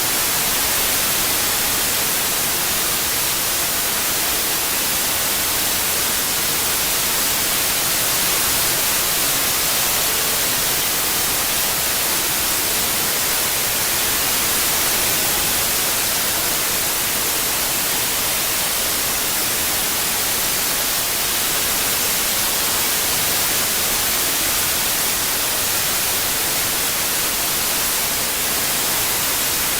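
Steady synthetic white noise, an even hiss strongest in the treble, with no changes or events.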